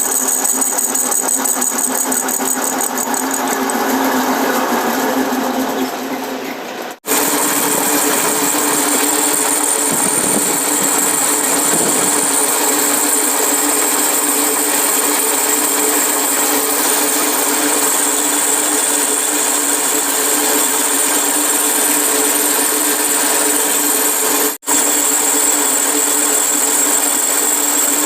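An electric power tool running steadily with a constant hum. The sound breaks off abruptly about seven seconds in and again near the end.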